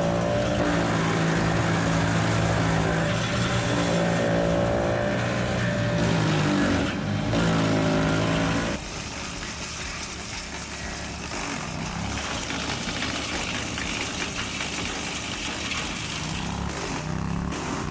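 Wood chipper engine running under load; its pitch sags and recovers about six to seven seconds in. About nine seconds in the sound changes abruptly to a quieter, steadier machine noise.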